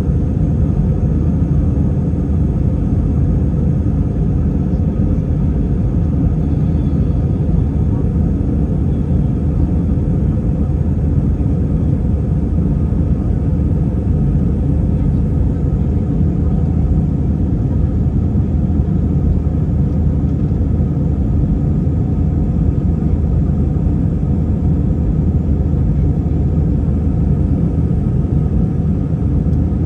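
Airliner cabin noise in flight: a steady, even low rumble of the jet engines and airflow, with no change in pitch or level.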